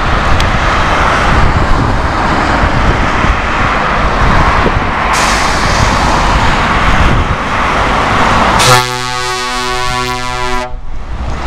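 Scania 730 V8 truck running loud, then one steady air-horn blast of about two seconds near the end.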